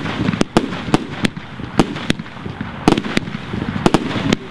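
Aerial fireworks bursting overhead: about ten sharp bangs at irregular spacing, with a steady hissing crackle between them.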